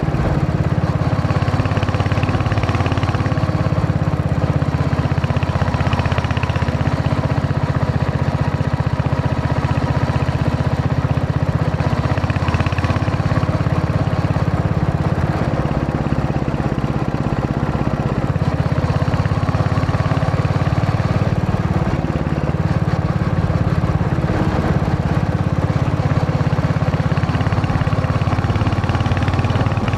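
Royal Enfield Hunter 350's single-cylinder engine running steadily while riding, its note rising and falling slightly with the throttle.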